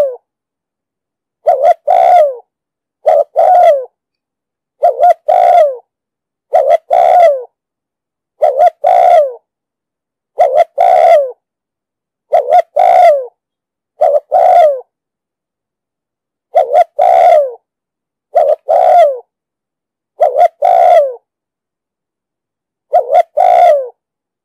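Spotted dove cooing: short phrases of two or three notes, repeated about every two seconds with complete silence between them and a couple of longer pauses.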